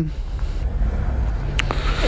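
Kawasaki ZX-10R sport bike engine running low and steady, with wind rumbling on the microphone. Two brief sharp ticks about one and a half seconds in.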